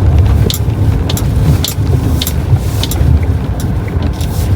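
Car driving, a steady low rumble of engine and tyres with scattered short clicks or ticks over it.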